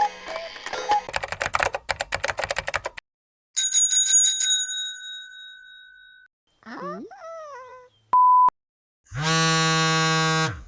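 A string of stock sound effects cut one after another: about three seconds of rapid clattering clicks mixed with short pitched notes, then a bell rung rapidly that rings out and fades, then a few short swooping calls, a brief steady beep, and a loud buzzer held for about a second and a half near the end.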